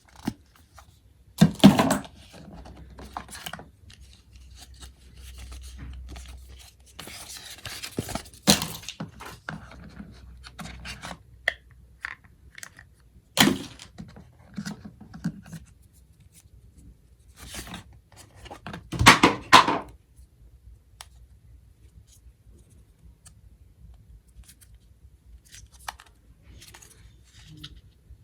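Apple Watch packaging being handled and opened: intermittent rustling, scraping, tearing and light knocks of cardboard and paper, with the loudest burst of rustling about two-thirds of the way through.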